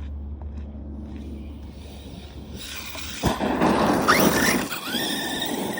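Electric RC basher car suddenly taking off on rough ground with a rising whine, followed near the end by a high-pitched squeal.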